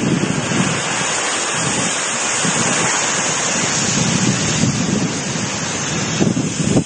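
Typhoon storm: strong wind with heavy rain, a loud steady hiss with uneven low rumbling gusts.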